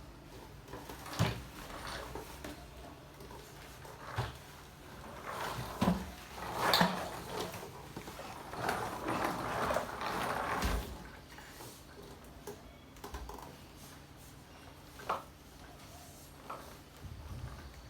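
A baby walker rolling and clattering across a room floor, with several sharp knocks as it bumps into things and a longer stretch of rattling in the middle.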